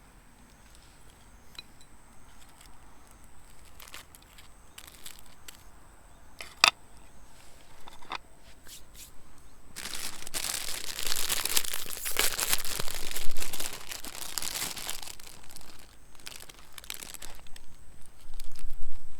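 Crinkling and rustling of something being handled, at its densest for about five seconds in the middle, with scattered small clicks around it and one sharp tap about six and a half seconds in.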